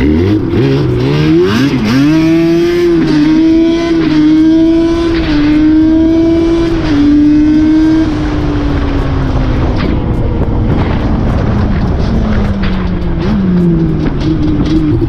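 Nissan 350Z's 3.5-litre V6 through its aftermarket exhaust, accelerating hard: the engine note climbs steeply for about two seconds and then holds high with small dips. About halfway through it eases off and the pitch slides down, before climbing again near the end.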